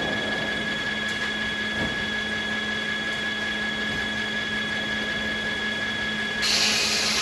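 Sawmill machinery running with a steady whine and hum. Near the end a louder hiss sets in.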